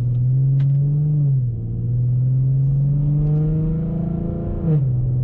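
The 2015 Mustang's 3.7-litre V6 heard from inside the cabin under acceleration. The engine note climbs and then drops back twice, about a second in and near the end, as the car shifts up a gear.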